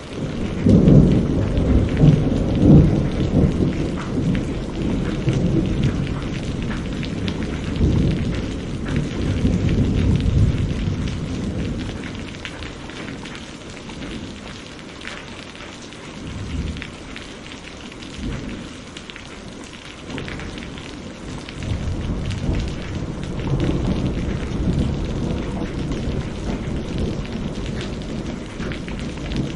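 Steady rain pattering, with rolling thunder rumbling low, loudest in the first ten seconds and again in the last third.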